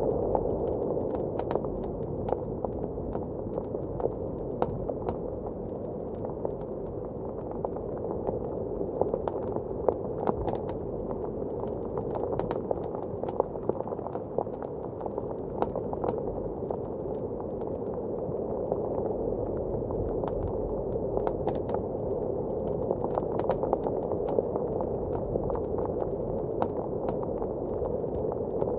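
Wood fire crackling in a fireplace, with irregular sharp pops and snaps, over a steady low rush of blizzard wind.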